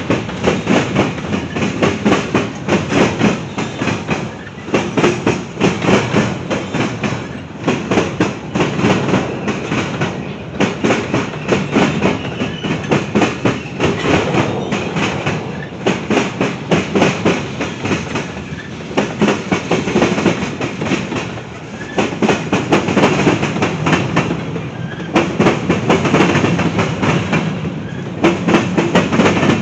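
Freight train cars rolling past, wheels clacking over rail joints in repeated clusters of clicks.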